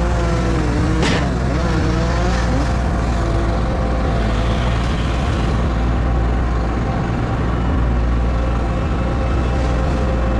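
A steady engine drone running without a break, with a sharp click about a second in.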